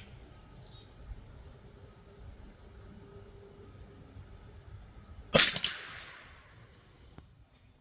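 A single .22 LR rifle shot from a Rossi RB22 about five seconds in: one sharp crack with a short trailing echo. Steady insect chirring continues in the background throughout.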